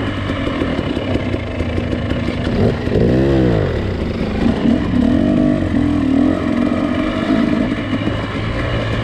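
Nissan Pathfinder SUV engine working on a rough off-road trail: it revs up and back down about three seconds in, then keeps running with a wavering pitch, with some clatter over it.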